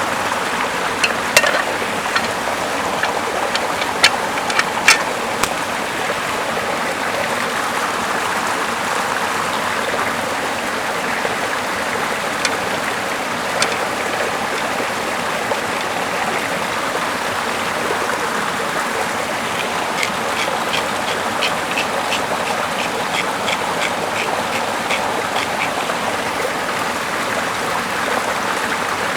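Small river and waterfall running steadily. Sharp crackles and pops from a campfire come through in the first few seconds, and a run of short, evenly spaced ticks comes later on.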